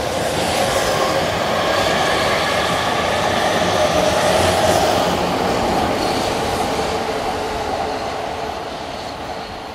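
JR E231 series 800-subseries commuter train pulling out past the camera: motor whine and wheel noise over the rails, loudest about halfway through, then fading as the last car draws away.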